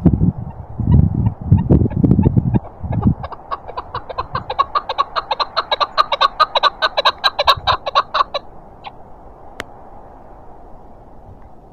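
Chukar partridge calling a fast run of repeated clucking notes, about six a second, for some five seconds over steady cold wind. Before the call, strong gusts buffet the microphone with a low rumble.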